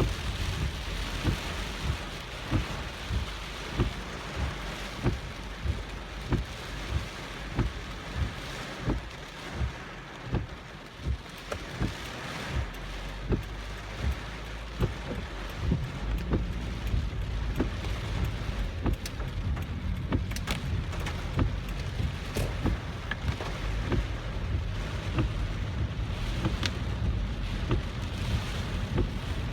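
Heavy typhoon rain drumming on a moving car, over a low rumble of the car on the road. Sharp knocks repeat about every three-quarters of a second throughout.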